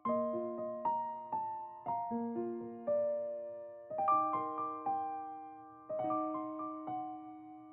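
Gentle background piano music: single notes and chords struck every half second or so, each ringing and fading, in a repeating two-second phrase.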